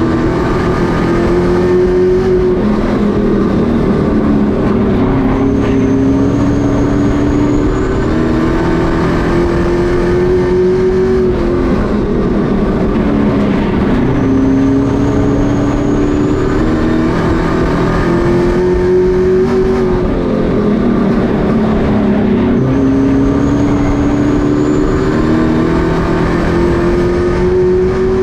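Race trucks' engines at full racing speed, pitch climbing as they accelerate and dropping back as they lift, over and over about every four to five seconds, with the noise of several engines blended together.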